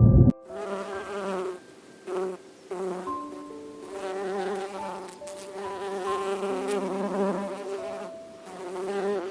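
A flying insect buzzing in spells, breaking off briefly twice in the first three seconds, over faint held background tones.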